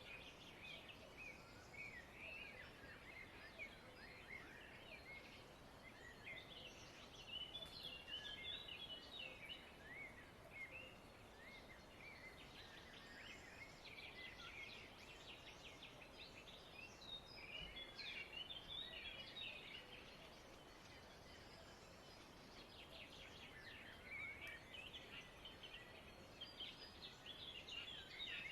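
Faint chattering of many small birds: quick high chirps, busier in several spells, over a low steady hiss.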